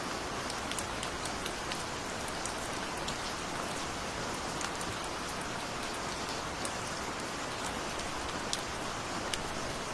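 Steady rain falling, a continuous even hiss with individual drops ticking sharply on a surface here and there.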